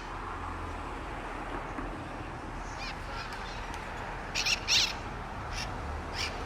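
Mitred parrots giving harsh, screechy calls: a few faint ones about three seconds in, then two loud screeches in quick succession past the four-second mark and a fainter one after, over a steady low background hum.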